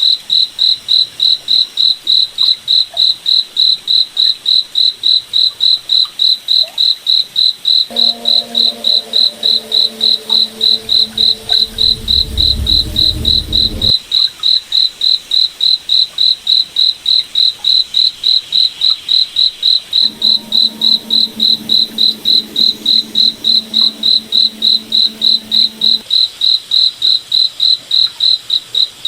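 Crickets chirping in a steady, even rhythm of about three high chirps a second. Twice a lower hum fades in under the chirping for about six seconds, the first time with a low rumble towards its end.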